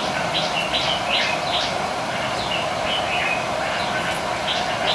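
A bird chirping: short, high calls repeated in quick runs, about two or three a second, pausing and starting again, over a steady background hum.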